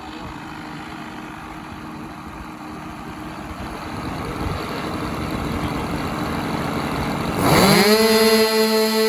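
Nitro glow engines of a twin-engine RC model airplane running, growing louder, then about seven and a half seconds in throttled up sharply. The pitch sweeps up and settles into a steady, high-pitched full-throttle drone.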